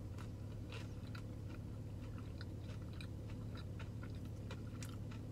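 Close-up chewing of a fried chicken sandwich: a string of small wet clicks and crunches as the mouthful is chewed with the mouth closed, over a steady low hum.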